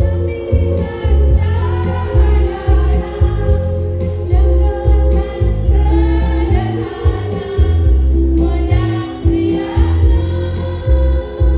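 Choir of older adults singing together over backing music with a steady, pulsing bass beat.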